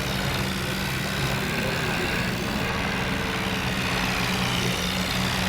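Heavy diesel engine running steadily at an even speed, a constant low hum.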